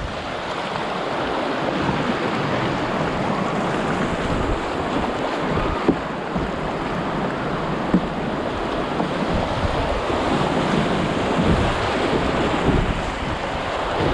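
Steady rush of river water washing around a kayak, mixed with wind buffeting the microphone, with two brief knocks partway through.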